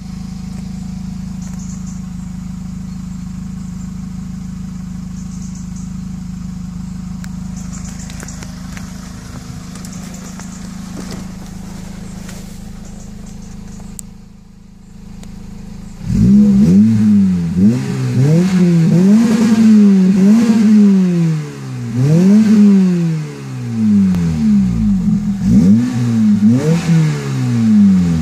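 Toyota Celica VVTL-i's 1.8-litre four-cylinder engine through a custom exhaust, idling steadily, then revved repeatedly from about halfway through: around eight quick rises and falls in pitch.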